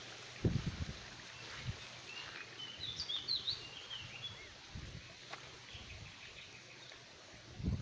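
Small birds chirping in a short cluster of quick, high notes about three seconds in, over steady outdoor background noise. A few low thumps sound on the microphone.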